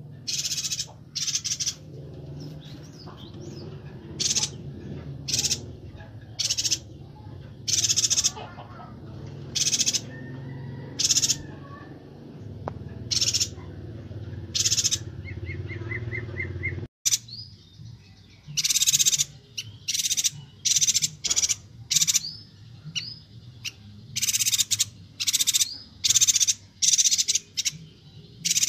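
Chestnut-crested yuhinas calling: a steady run of short, sharp, high-pitched notes, repeated about once a second and coming thicker in the second half, with a brief break about 17 seconds in. The calls are the lively, dense 'gacor' calling used as a master recording for teaching cage songbirds.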